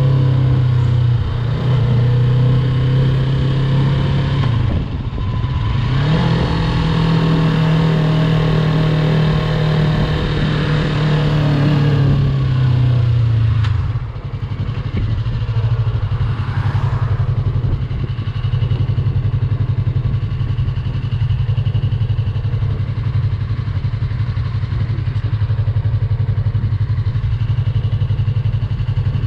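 Yamaha YZF-R3's parallel-twin engine running under way at steady revs, dipping briefly about five seconds in. About halfway through it drops off to a lower, steady, pulsing idle.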